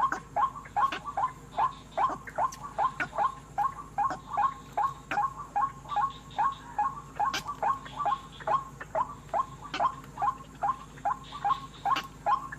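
White-breasted waterhen calling, a monotonous string of short 'wak' notes repeated about three times a second without a break.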